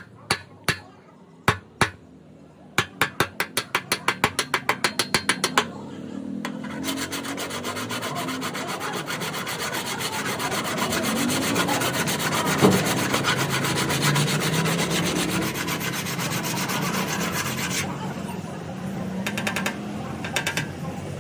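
Light hammer taps on a car body panel, quickening to about five a second, then a long stretch of steady rasping rubbing against the panel, as in dent-repair finishing; a few taps return near the end.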